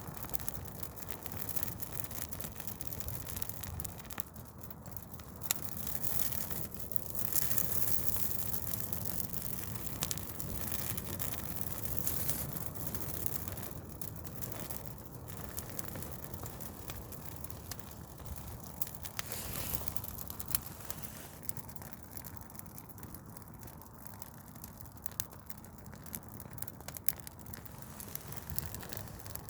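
Douglas fir Christmas tree burning: dense crackling and popping from the resinous wood over a steady rush of flames, with a couple of sharper pops. It dies down somewhat in the second half.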